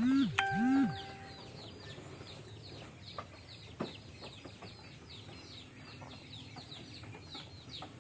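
Birds chirping steadily, a run of short high falling chirps a few times a second over faint background hiss. The first second holds a louder pair of rising-and-falling tones with a held tone under them.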